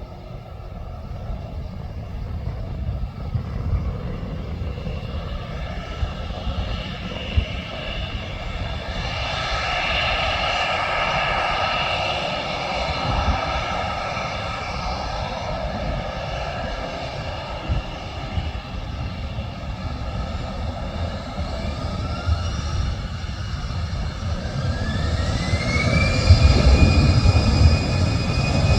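Airliner engines running with a steady whine, rising in pitch from about 22 seconds in and then holding higher as the engines spool up. A low rumble grows louder near the end.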